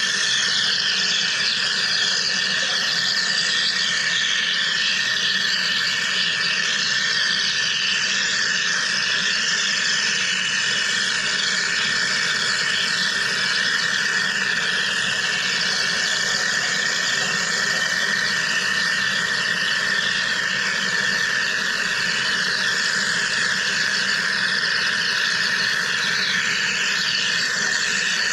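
Wire EDM machine cutting: a steady crackling hiss from the sparking wire and its coolant flush, over a constant high-pitched tone.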